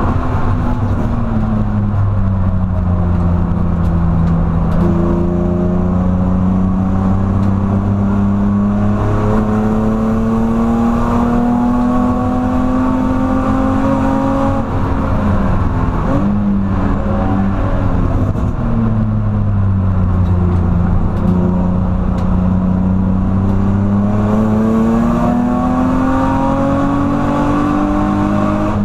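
BMW E46 330Ci's 3.0-litre straight-six, heard from inside the cabin under hard track driving. The engine note climbs steadily through the revs and falls away twice. About midway there is a quick jagged rise and fall in pitch before it climbs again.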